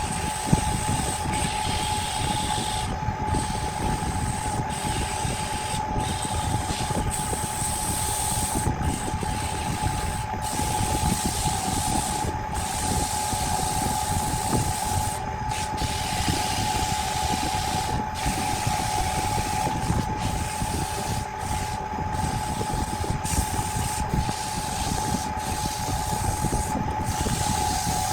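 A power woodworking tool running steadily on wood, with a constant whine over dense grinding noise.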